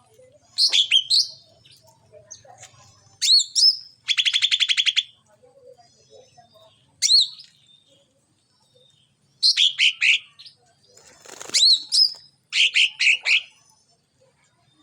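A small songbird known in Indonesia as cak ranting, calling in short clusters of sharp, high up-and-down chirps every second or two, with a fast buzzy trill lasting about a second some four seconds in.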